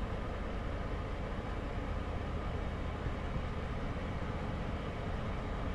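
Steady low rumble and hiss of a train standing at the far end of the platform, with no clear changes.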